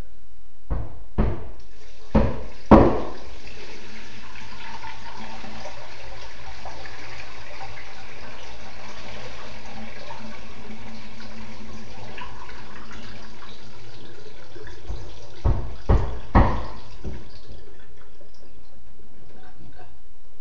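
Water pouring steadily for about fifteen seconds during a frog container's water change, with a few knocks of the container being handled at the start and again three knocks near the end.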